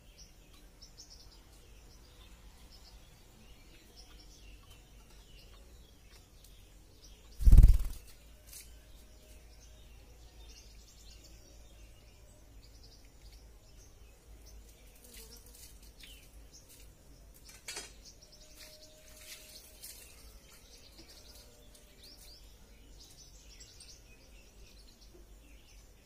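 Faint, scattered bird chirps, more of them in the second half, with one loud low thump about seven and a half seconds in and a smaller click later.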